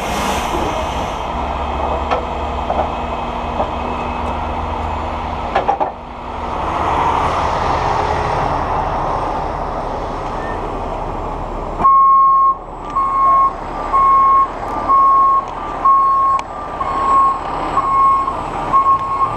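A heavy truck's diesel engine running steadily. About twelve seconds in, a vehicle's reversing alarm starts, beeping about once a second over the engine.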